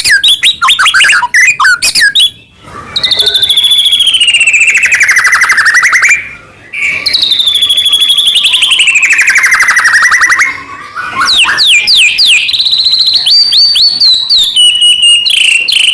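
White-rumped shama in full, vigorous song. It opens with quick sweeping notes, then gives two long rapid trills of about three seconds each that dip in pitch and climb back. It ends with a varied run of clear, sharp whistled notes.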